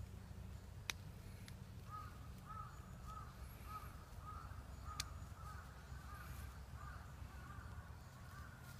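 Faint bird calls: a short call repeated about twice a second from about two seconds in until near the end, over a steady low rumble. Two sharp clicks, about a second in and about five seconds in.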